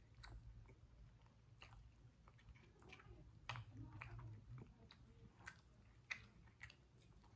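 Faint chewing and mouth sounds of a person eating chicken and noodles: scattered soft clicks and smacks over a low steady hum.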